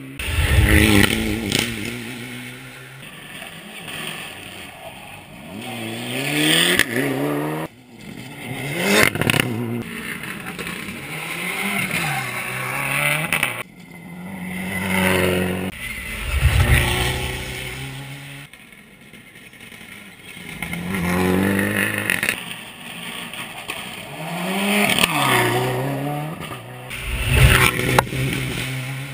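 Rally car engines revving hard, pitch climbing and dropping through gear changes. The sound comes in several loud swells that fade away, with abrupt cuts between them.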